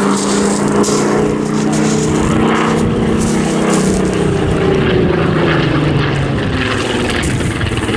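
Spitfire's Rolls-Royce V12 piston engine running loud and steady during a display pass, its pitch dropping about halfway through as the aircraft goes by.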